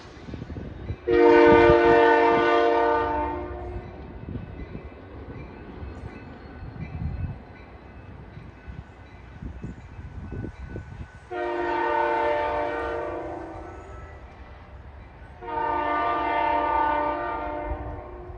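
Air horn of a pair of EMD GP60 diesel locomotives running light, sounding three long chord blasts: one about a second in, then two more near the end. Between the blasts the locomotives' engines and wheels rumble, and the later blasts are quieter than the first.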